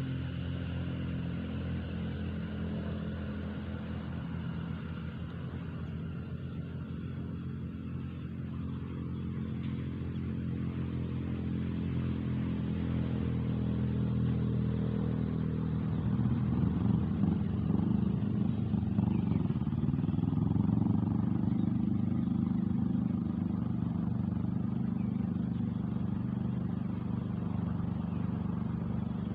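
A motor engine running steadily, growing louder through the middle. About two-thirds of the way in it dips briefly in pitch and comes back up.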